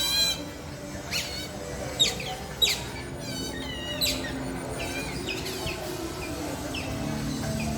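Birds chirping: sharp, quick calls that sweep downward in pitch, repeated irregularly, most of them in the first half, over a low steady hum.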